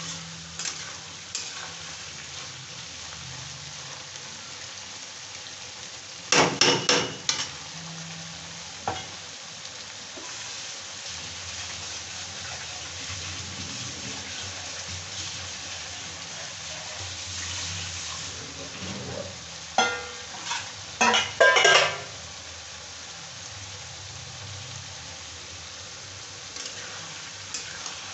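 Sliced onions and chickpeas sizzling in oil in a kadai, with a metal spatula scraping and knocking against the pan in two loud bursts of stirring, about six seconds in and again around twenty to twenty-two seconds in.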